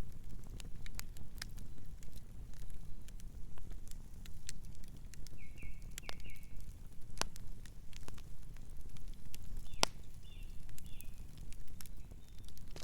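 Campfire crackling, with frequent sharp pops and snaps over a low steady rumble. Short high chirps of a night bird come in twice, about five seconds in and again about ten seconds in.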